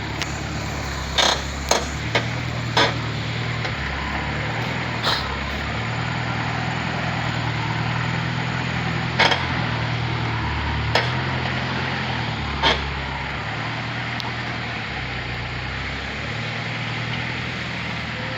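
Truck engine running, its low drone shifting up and down in pitch, with sharp knocks and clanks every few seconds, several in quick succession near the start, as the truck jolts over a broken, rutted road.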